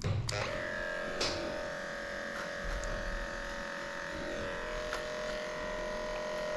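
Electric dog grooming clippers starting up a moment in, then running with a steady buzzing hum as they shave through matted coat, with a few light clicks.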